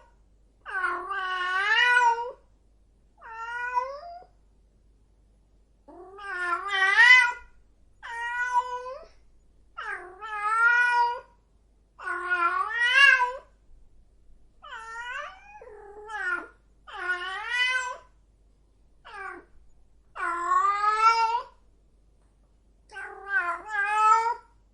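A cat meowing again and again: about a dozen drawn-out meows, one every two seconds or so, each bending up and down in pitch.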